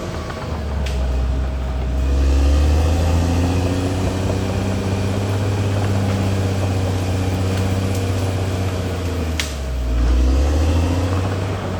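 CAT D6R XL bulldozer's diesel engine running under changing load, its pitch dipping and rising a few times. Two sharp clicks, about a second in and near the end.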